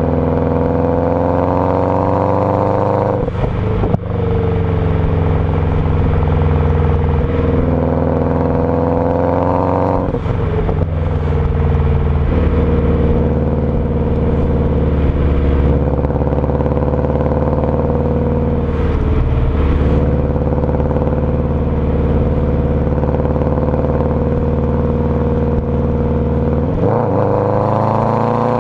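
Subaru engine running through a loud aftermarket exhaust, its pitch slowly falling and rising over several seconds at a time, with sudden breaks in the engine note about five times.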